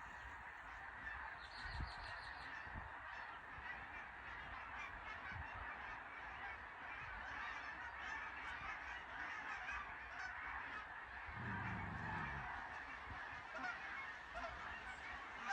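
A large flock of geese honking continuously, a dense overlapping chorus of many birds at a distance.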